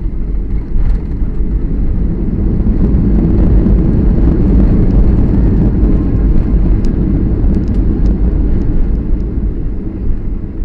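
Boeing 737 landing heard from inside the cabin: a loud, deep rumble of the engines and the aircraft on the runway. It swells over the first few seconds and eases off near the end.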